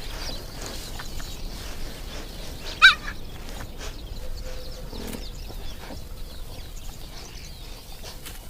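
Quiet outdoor ambience with one short, high-pitched chirping animal call about three seconds in.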